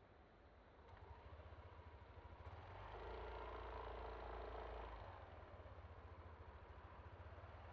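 A Yamaha Aerox V3 scooter's single-cylinder engine running at low revs. It picks up about a second in, rises with throttle for a couple of seconds around the middle, then eases back to a low, even run.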